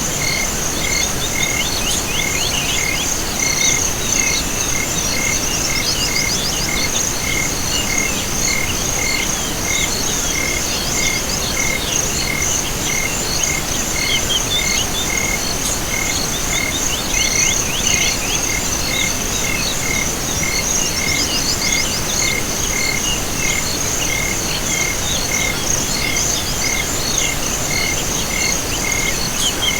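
Chorus of crickets and other insects: steady shrill trilling, a regular chirp about twice a second, and clusters of quick sweeping calls every few seconds.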